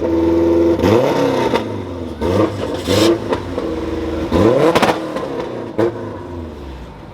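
A car engine revved repeatedly, with about five quick blips that rise and fall in pitch between short holds, fading out near the end.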